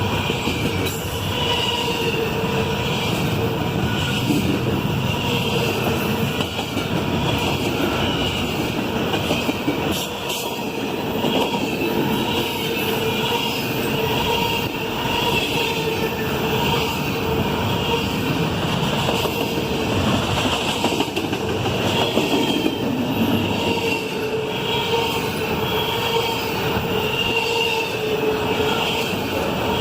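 Norfolk Southern intermodal freight cars rolling past, a steady loud rumble of wheels on rail with a continuous high-pitched wheel squeal over it.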